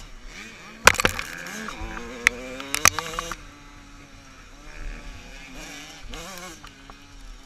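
Motocross motorcycle engines revving, their pitch rising and falling. Several sharp cracks cut in during the first three seconds, the loudest about a second in.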